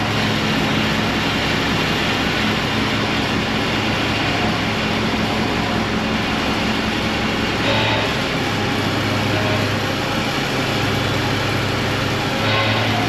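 Diesel engine of a piece of heavy equipment idling steadily, with two brief rises in engine note, about 8 seconds in and near the end.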